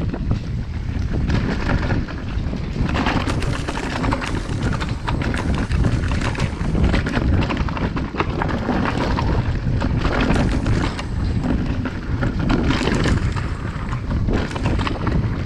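Wind buffeting a chest-mounted GoPro's microphone at speed on a downhill mountain bike, with tyre noise on the dirt trail swelling every few seconds and frequent short rattles and clicks from the bike over rough ground.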